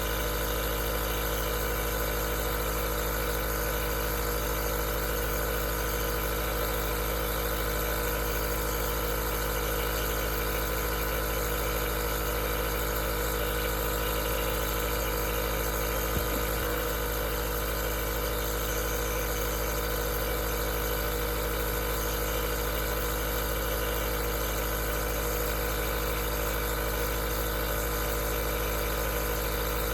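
Aerosol nebulizer running steadily: a constant mechanical hum made of many steady tones over an even hiss, with one faint tick about halfway through.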